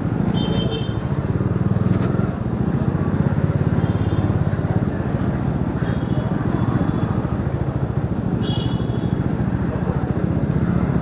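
Bajaj Dominar 400's single-cylinder engine running steadily under way, a dense low pulsing rumble heard from on board the motorcycle.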